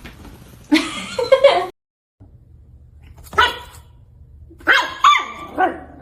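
A dog barking and yelping in short bursts: a run of calls about a second in, one bark a little past three seconds, and a longer string of calls near the end.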